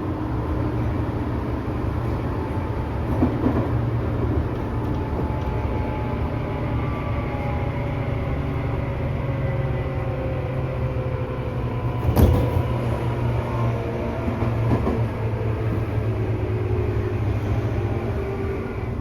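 Interior running sound of a Tobu 10000 series electric train in motor car MoHa 13003: a steady rumble of wheels on rail, with motor and gear tones slowly falling in pitch. A single sharp knock comes about two-thirds of the way through.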